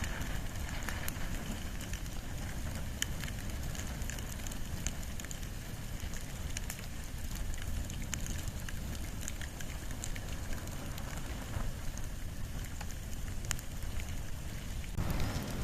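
Wood and bamboo fire burning, with a steady low rushing sound and scattered sharp crackles. The rush grows louder near the end.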